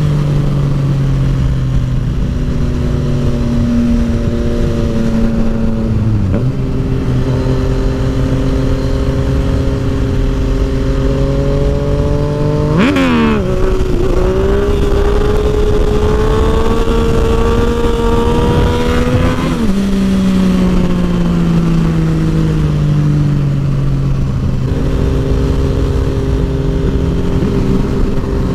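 Yamaha FZ-09 (MT-09) inline-three motorcycle engine running at road speed, with wind rushing over the helmet-mounted microphone. The engine note holds steady, gives a sharp rev about halfway through, climbs gradually under acceleration, then falls away as the throttle is rolled off, and settles steady again near the end.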